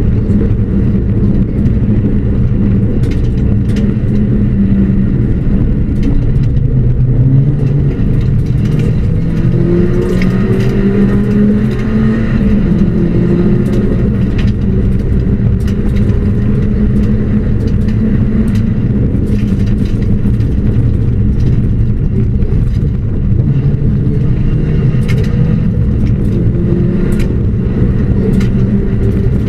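Ford Puma rally car's engine heard from inside the cabin at speed on a stage, its pitch rising and falling as the driver accelerates, lifts and changes gear, over steady road noise. Scattered sharp ticks run throughout.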